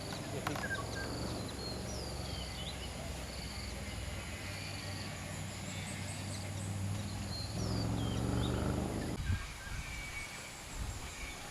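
Small birds chirping: short, high calls gliding up and down, scattered throughout. Under them runs a steady low hum, which grows louder about eight seconds in and stops about a second later.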